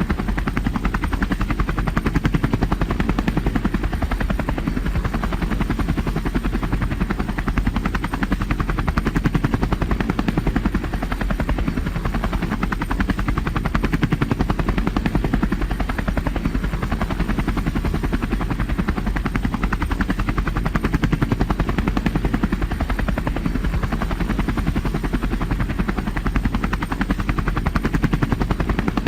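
Helicopter in flight, heard from on board: steady rotor blade beat over engine noise, even and unbroken.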